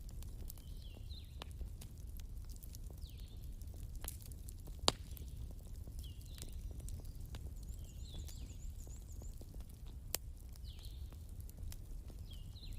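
A wood fire crackling over a low steady rumble, with sharp pops, the loudest about five seconds in and another near ten seconds. An animal gives short high falling calls every second or two, and a brief high trill comes around eight seconds in.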